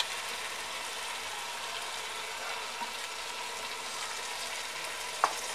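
Chicken pieces and masala frying in a pressure cooker over a high flame: a steady, even sizzle. A single short click comes near the end.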